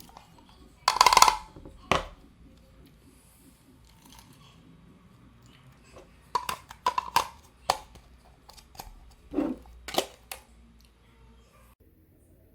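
Handling noises: a short scraping rustle about a second in, then a string of sharp clicks and knocks near the middle and toward the end.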